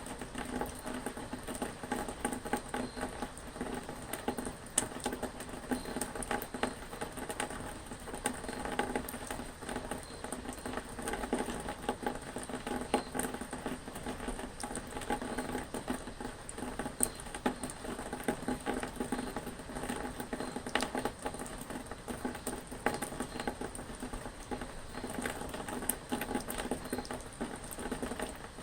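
Rain pattering steadily, with many small drops ticking.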